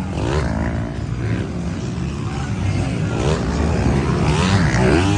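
Motocross bikes racing on the track, engines revving up and down in pitch as they pass, one most clearly near the end, over a steady low rumble of other engines.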